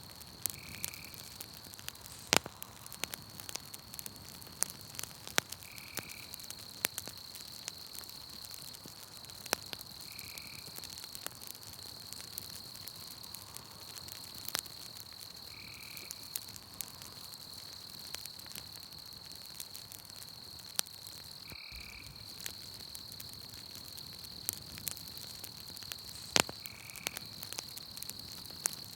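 Campfire crackling, with irregular sharp pops, over a steady high-pitched insect drone. A short high call repeats about every five seconds.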